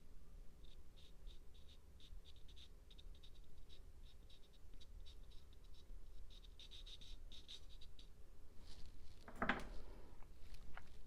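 Soft pastel scratching across textured paper in many short, quick strokes, laying rough texture back into the painting. About nine and a half seconds in comes one louder rustle.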